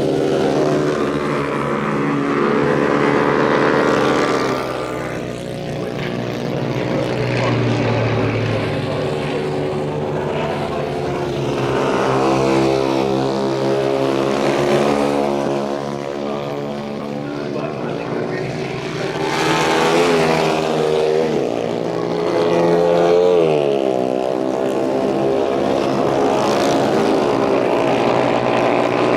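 Motorcycle engines at high revs as bikes go past one after another, the pitch climbing and dropping with gear changes and as each one passes.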